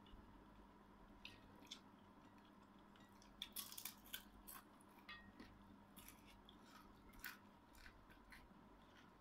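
Faint close-up eating sounds: crunchy bites and chewing of dried fish and rice, eaten by hand. There is a cluster of crisp crunches about three and a half seconds in and more around six to seven seconds.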